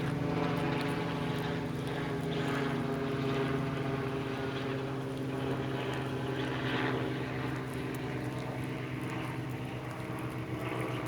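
A steady engine drone with a low hum and several overtones, easing off slightly in the second half.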